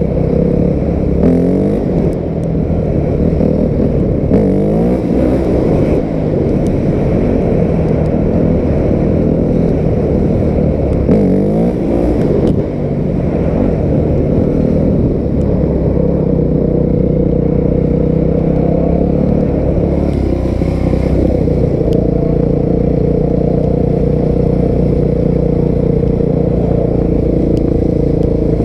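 A 250 dirt bike engine revving up in several rising bursts as the throttle is opened. In the second half it settles into a steady run at an even pitch.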